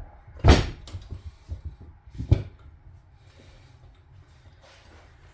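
Knocks and clicks of outboard motor parts being handled and fitted during reassembly: two louder knocks, about half a second and two seconds in, with lighter clicks between.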